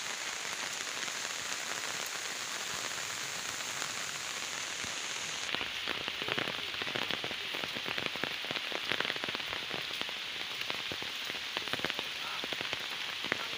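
Heavy rain falling steadily, an even hiss. About halfway through, many sharp, close taps come in thick and irregular, then thin out near the end.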